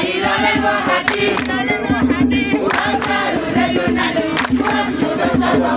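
A group of voices singing together to music, over a steady sustained tone and repeated sharp percussive strikes.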